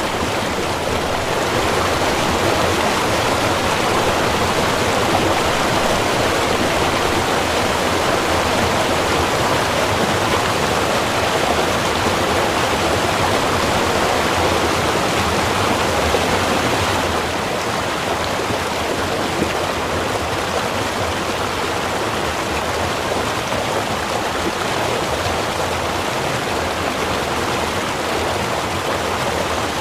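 Small river running steadily: a dense, even rush of water with no other sounds, a little softer from about seventeen seconds in.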